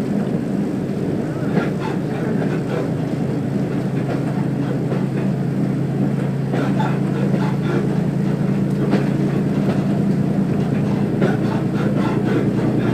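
Diesel railbus under way, heard from inside the carriage: a steady engine hum with running noise, the hum growing stronger about five seconds in.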